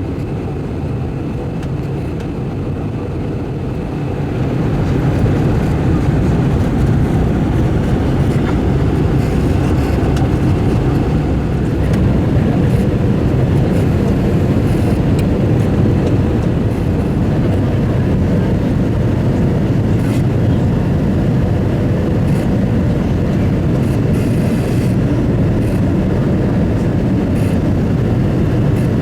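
Cabin noise inside an Airbus A320: a steady rumble of engines and airflow that steps up in loudness about five seconds in and stays up.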